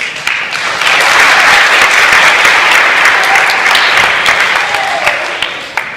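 Audience clapping, loud and full within the first second, then tapering off near the end.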